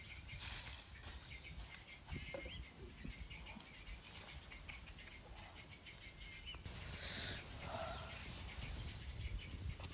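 Faint outdoor ambience with a few scattered, short bird chirps.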